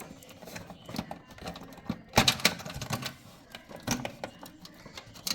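Irregular sharp plastic clicks and knocks from a desktop PC's cables being unplugged and handled, the loudest pair about two seconds in.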